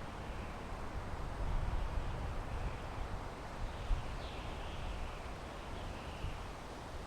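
Wind blowing through pine trees: a steady rustling hiss over an uneven low rumble that swells briefly about one and a half seconds in. A faint, short high sound comes through about four seconds in.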